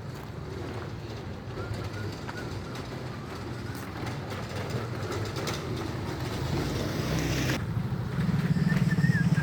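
Vehicle traffic: a steady engine rumble that slowly grows louder, with a hiss that cuts off suddenly near the end, then a louder engine hum close by.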